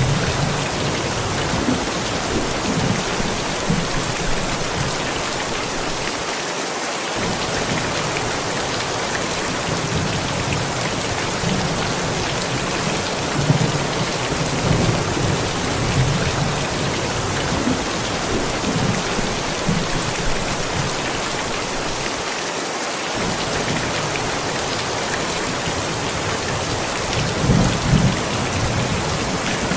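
Steady heavy rain with rolling thunder rumbling low underneath, swelling and fading in waves, a little stronger near the end.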